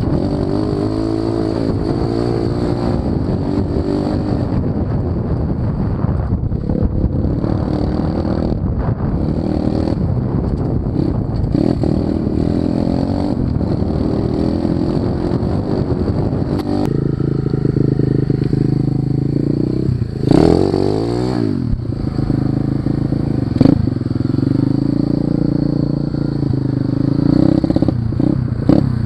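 125cc pit bike engine running under a riding load, its pitch rising and falling with the throttle; about two-thirds through it revs sharply up and drops straight back down.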